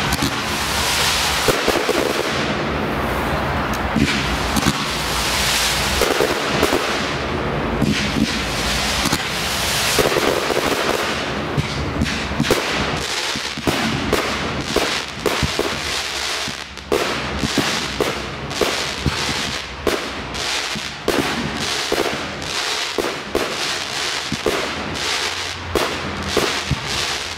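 Fireworks display: a dense, continuous crackle of bursting shells with repeated low bangs, turning into many rapid separate sharp reports from about halfway through.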